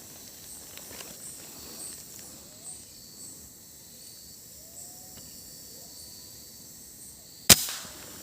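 Forest insects calling steadily, with repeated high chirps and a few faint gliding bird calls, then a single sharp, loud air-rifle shot near the end.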